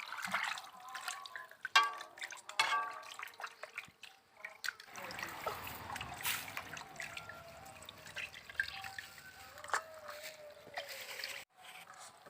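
Water trickling and dripping, with small splashes, as when food is washed by hand in a pot or basin.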